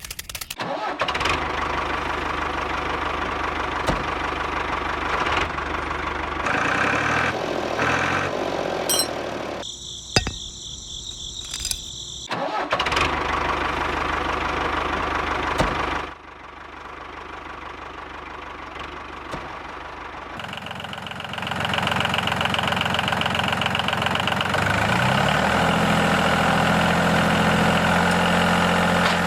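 A small engine running and idling, in several abrupt segments with a quieter stretch in the middle. Near the end it gets louder and its pitch rises, then holds steady.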